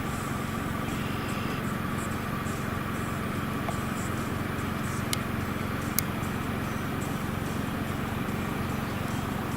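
Steady drone of a vehicle's engine and road noise, with two sharp clicks about five seconds in and again a second later.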